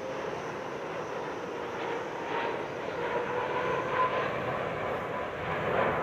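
Turbofan engines of a twin-engine widebody jet airliner flying a display pass: steady jet noise with a faint engine tone that wavers slightly in pitch.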